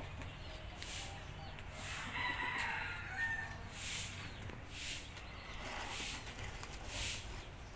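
Domestic rooster crowing once, about two seconds in, for roughly a second. Short scratchy noises recur about once a second.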